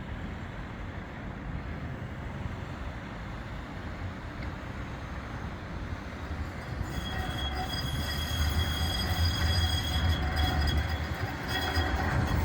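A tram approaching on its rails, its running rumble growing steadily louder. About halfway through, high steady squealing tones from the wheels join in.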